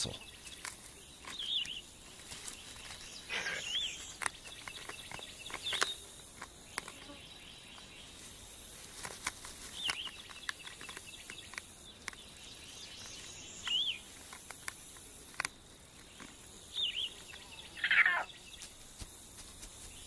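Outdoor natural ambience: a steady hiss with short bird chirps every few seconds and scattered light clicks, the loudest call a falling one near the end.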